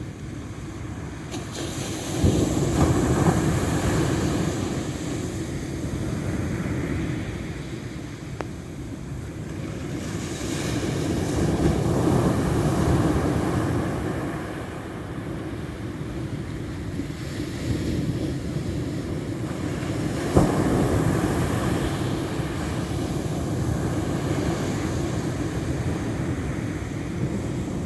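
Ocean waves washing onto the shore, a steady rush that swells three times as waves break: a few seconds in, near the middle, and about two-thirds through.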